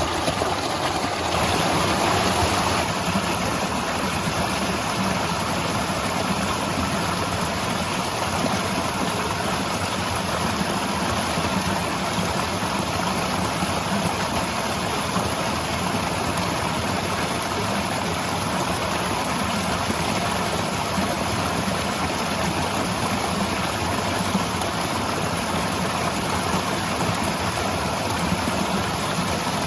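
Waterfall: falling water rushing and splashing in a steady, unbroken roar, a little louder for a couple of seconds near the start.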